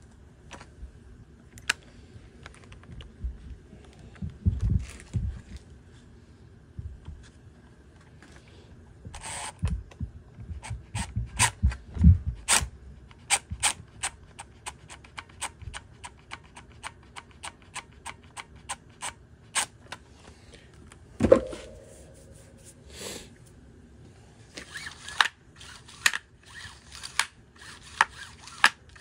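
Clicks and knocks from working on a Homelite string trimmer with hand tools during reassembly, including a long run of evenly spaced clicks, about three a second, in the middle, a louder knock a little later, and faster clicking near the end.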